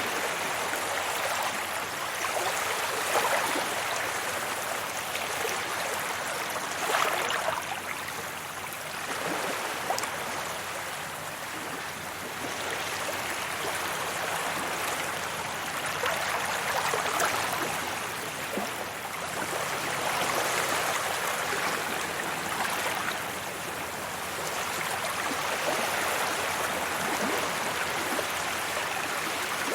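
Sea waves breaking and washing up a beach, a continuous rush of surf that swells and eases every few seconds.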